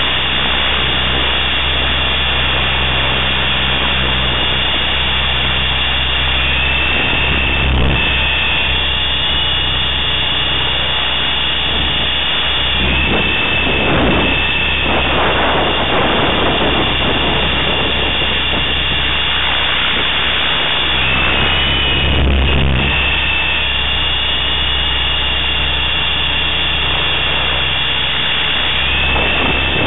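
Electric T-Rex 500 RC helicopter in flight: the high-pitched whine of its motor and drive gears, which steps up or down in pitch a few times, over a steady low hum from the spinning rotor. A few brief swells of rushing noise come and go.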